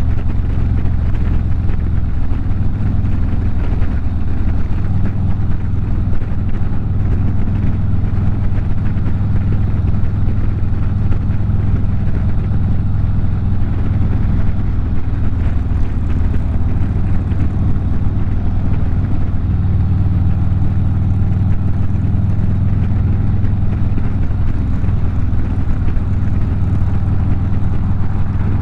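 Harley-Davidson V-twin motorcycle engine running steadily, a deep even drone with no rise or fall in engine speed.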